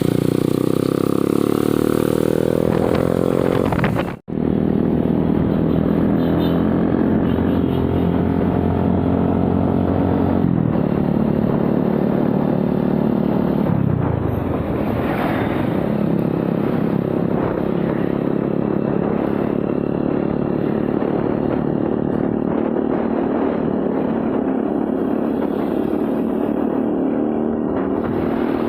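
Motorcycle engine running during a ride. It revs up in pitch over the first few seconds, breaks off for an instant about four seconds in, then runs on steadily, with drops in pitch around ten and fourteen seconds in as it slows or shifts gear.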